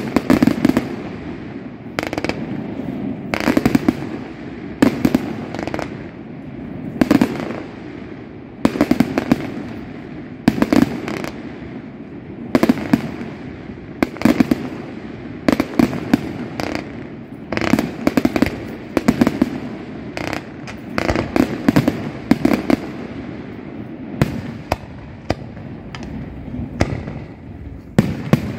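Aerial fireworks display: shells bursting in quick succession, one or two bangs a second, each echoing, over steady crackling.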